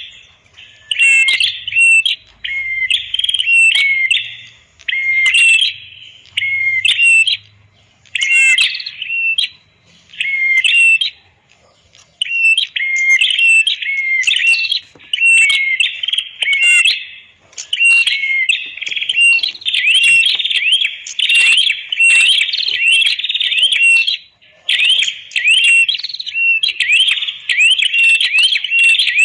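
A red-headed prenjak (prenjak kepala merah) singing loud, rapid, shrill chirps in quick bursts with short pauses between them. About two-thirds of the way through, the chirping becomes almost unbroken.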